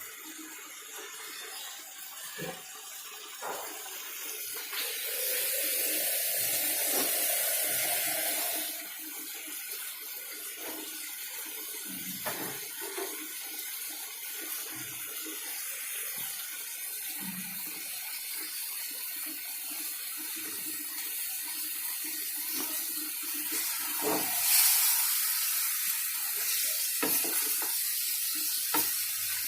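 Tap water running into a kitchen sink, the flow getting stronger for a few seconds twice, with scattered knocks of things being handled in the sink.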